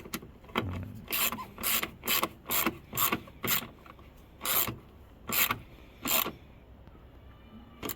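Hand socket ratchet tightening a light unit's mounting screws: about nine short ratcheting strokes, roughly two a second at first, then slowing toward the end.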